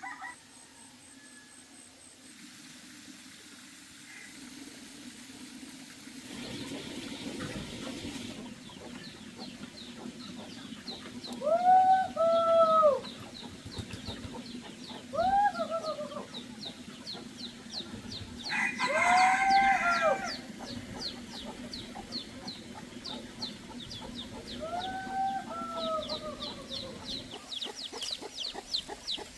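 Chickens: a grown bird gives about five drawn-out, arching calls while a rapid high cheeping runs on underneath, typical of chicks. A steady low hum sits beneath it all.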